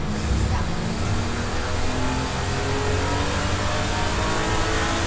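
BMW 325i straight-six engine under hard acceleration in one gear, heard from inside the cabin. The revs climb steadily from about 4,000 to about 6,000 rpm.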